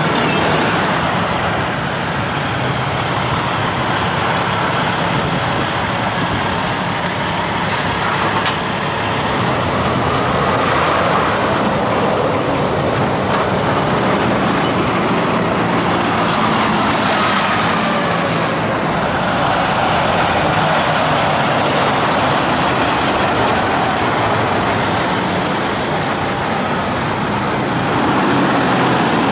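Semi-trucks driving past on a highway: a steady mix of tyre and engine noise that swells and eases slightly as vehicles go by.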